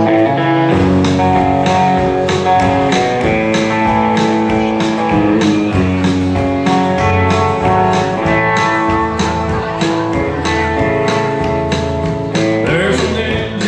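A country band plays an instrumental intro: a guitar melody over a bass line and a steady beat that comes in under a second in.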